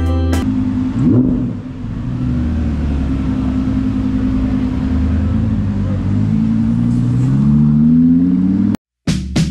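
Audi R8's V10 engine running as the car drives off, its pitch climbing steadily as it accelerates toward the end before cutting off suddenly.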